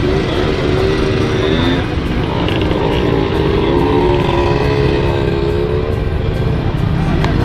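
Motorcycle and scooter engines running, with a steady low rumble and a wavering engine note, and voices in the background.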